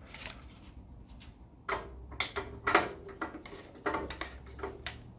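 3D-printed plastic collet spinner being handled and turned by hand: a handful of irregular clicks and knocks from the printed parts, some with a short ring, over a faint low hum.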